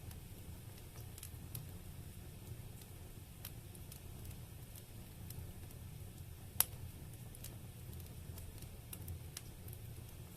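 Wood fire burning in a fireplace: a low steady rumble with scattered faint crackles, and one sharp, louder crack a little past the middle.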